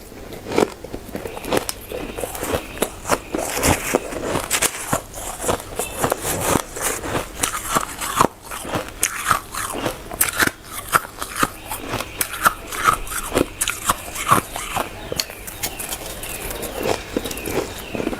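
Hard, frosty shaved ice being bitten and chewed, a dense run of irregular crunches with a few short squeaky notes.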